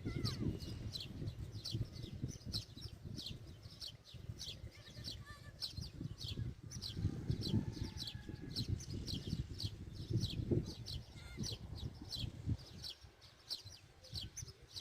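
Birds chirping: short, high chirps in quick succession, over a low rumbling background noise.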